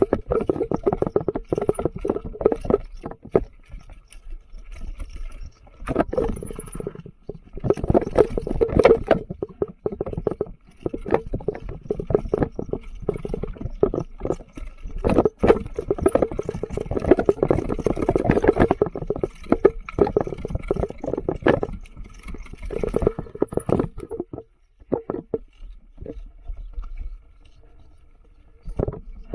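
Mountain bike riding a rough trail, rattling and clattering over rocks and roots in dense bursts with short quieter stretches, then calmer for the last few seconds.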